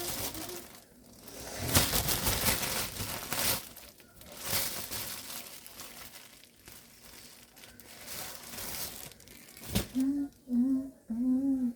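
Packaging being handled and crinkled, in a few noisy bursts during the first half. A voice is heard near the end.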